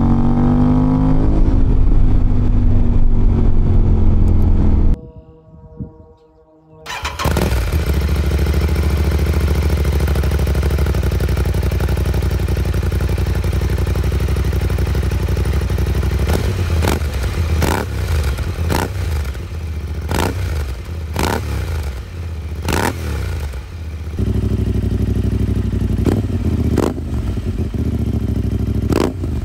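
Aprilia Tuareg 660's parallel-twin engine running through a Dominator HP6 full exhaust while the bike is ridden, the exhaust note rising and falling with the throttle. In the second half it pulls up through the revs again and again, with a rising pitch each time. The sound drops away briefly about five seconds in.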